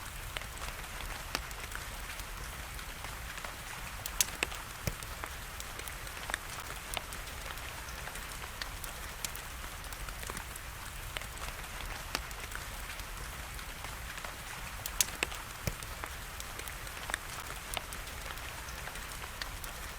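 Steady hiss of rain mixed with a wood fire crackling, with scattered sharp pops; the loudest pops come about four seconds in and again about fifteen seconds in.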